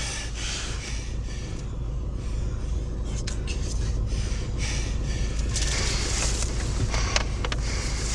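Car engine running, heard from inside the cabin as a steady low drone, with patches of higher hiss and a couple of clicks about seven seconds in.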